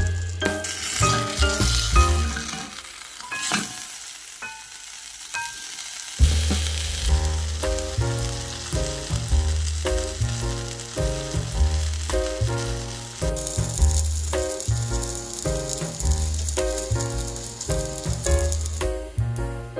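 Plăcinte (cheese-filled dough flatbreads) frying in oil in a non-stick pan, a steady sizzle, under background music with a regular beat. The beat drops out about three seconds in and returns about six seconds in.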